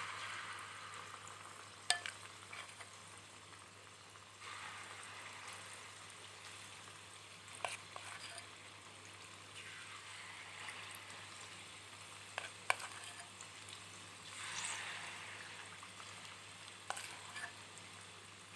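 Spoonfuls of banana fritter batter sizzling as they are dropped one by one into hot oil. The sizzle swells about every four to five seconds as each new fritter goes in, with several sharp clicks of the spoon against the pan.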